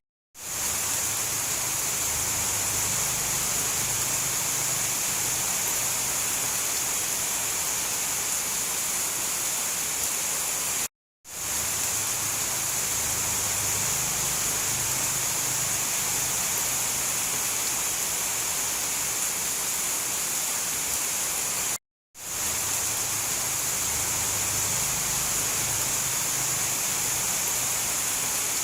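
Steady heavy rain, a dense even hiss. It drops to silence for a split second three times, about eleven seconds apart, where the looped recording restarts.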